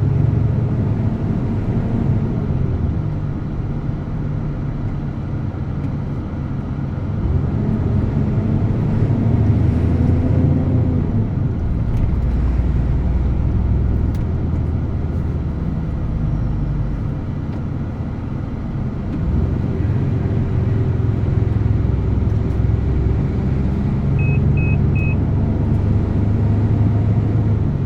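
DAF truck's diesel engine running under way, its pitch rising and falling gently with speed. Three short high beeps sound near the end.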